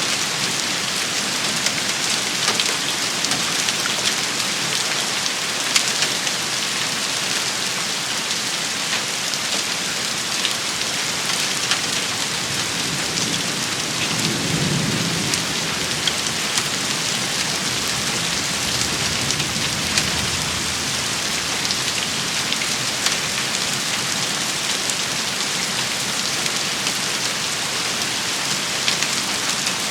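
Steady heavy rain shower striking a surface, thick with sharp individual drop impacts. Two soft low rumbles of distant thunder come about halfway through.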